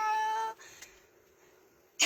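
A woman's drawn-out, sing-song "hi" held on one high pitch for about half a second, then quiet room tone until the next word begins near the end.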